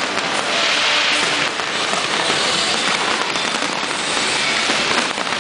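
Fireworks crackling in a dense, continuous shower of small bursts, with no single big bang standing out.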